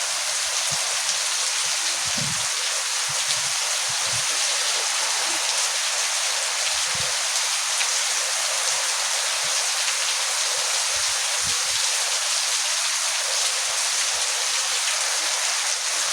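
Heavy monsoon rain falling steadily, an even, dense hiss.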